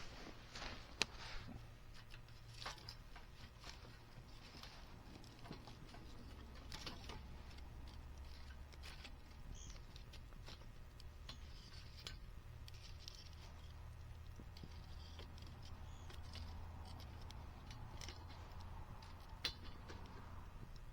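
Wood fire crackling in a compact V-shaped grill fire pit, with irregular snaps and pops scattered throughout, the sharpest about a second in and again near the end.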